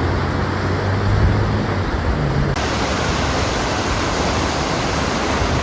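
Steady rushing of falling water, as from a waterfall.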